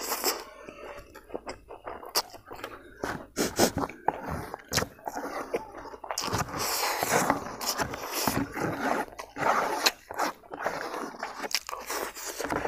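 Close-up mouth sounds of a person eating crispy fried naga king chili: chewing with many short crunches and clicks. Several noisy breaths come between them as he takes the heat of the chili.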